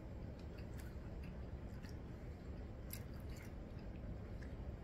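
Faint chewing of a soft, candy-like snack, with a few small mouth clicks over a low, steady room hum.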